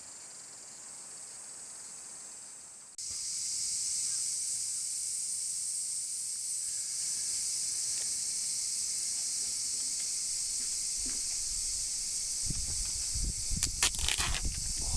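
A steady high-pitched hiss of outdoor background that turns suddenly louder about three seconds in, with rustling and scuffing steps on the ground and a few sharp clicks near the end.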